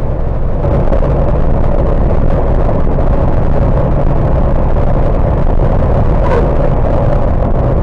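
Semi truck's engine running steadily with road noise, a constant low hum.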